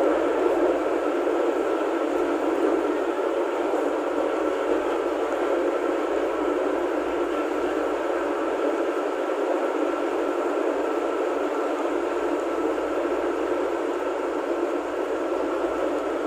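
Steady running noise of a KRDI diesel railcar under way, heard from inside the driver's cab, with a faint steady high hum through it.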